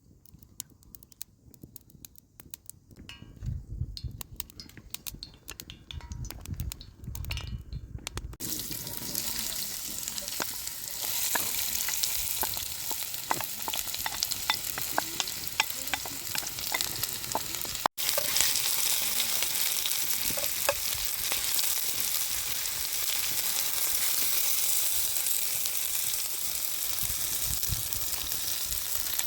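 Food frying in hot oil in a pan. A few scattered clicks and knocks come first, then a loud sizzle starts suddenly about eight seconds in and runs on steadily, full of small crackles.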